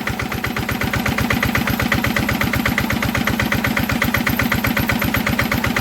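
Old Enfield stationary diesel engine running steadily with an even, rapid firing beat, settled at the speed just set by hand.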